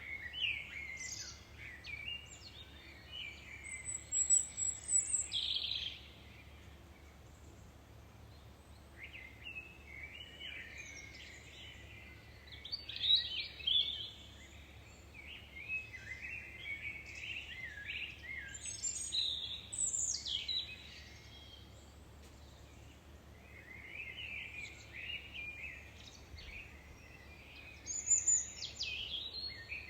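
Several songbirds singing and chirping in bursts of quick, high trills and whistles, in three spells with short lulls between, over a faint low background hum.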